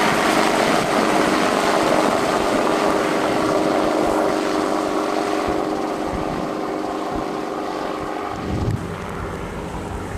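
Enstrom F-28F light piston helicopter in flight, its engine and rotor making a steady hum that slowly fades as it moves away. A gust of wind rumbles on the microphone near the end.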